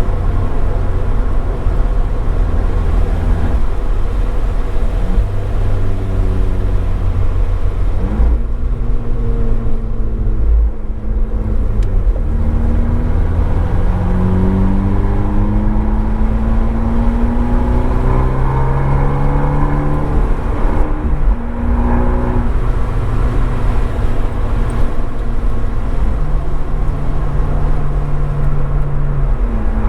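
Abarth 595 Esseesse's turbocharged 1.4-litre four-cylinder through an Akrapovič exhaust, driven hard on track: the note climbs in pitch under acceleration and drops sharply at each gear change, several times, heard from a microphone in the boot with some noise.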